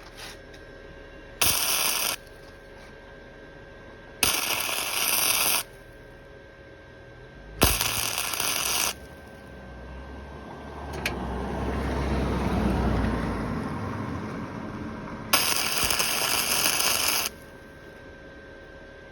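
Welder arc crackling in four short bursts of one to two seconds each, every one starting and cutting off sharply: short welds laid on a steel motorcycle frame. Between the third and fourth bursts a low rumble swells up and fades.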